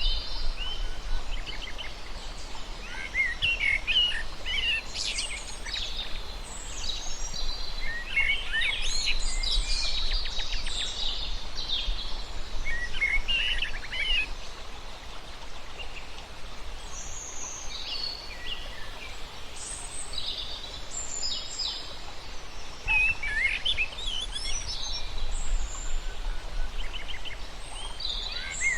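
Several wild birds chirping and singing in bursts of short, quick calls every few seconds, over a steady background hiss.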